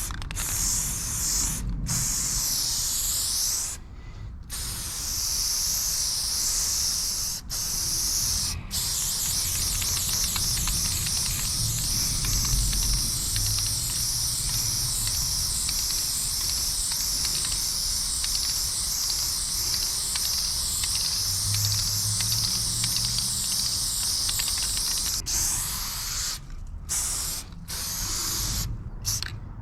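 Aerosol spray paint can spraying in long hissing passes while filling in a graffiti piece, with a few brief pauses and several short bursts near the end.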